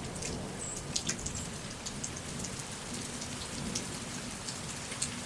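First drops of a rainstorm beginning to fall, scattered drops ticking sharply over a steady hiss.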